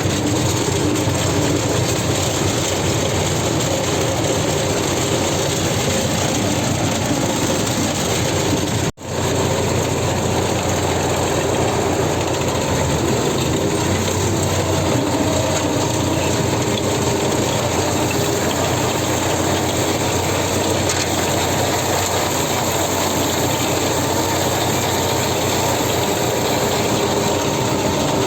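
Tractor engine running with the PTO-driven Z-178 rotary mower turning, a steady mechanical clatter over the engine. The sound cuts out for an instant about nine seconds in, then carries on unchanged.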